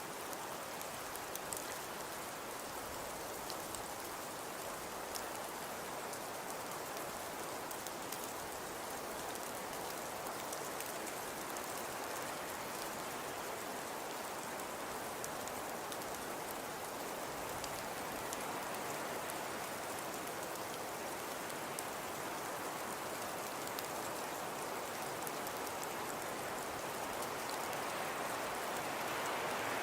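Fireplace crackling steadily: a dense hiss dotted with small sharp pops, growing a little louder near the end.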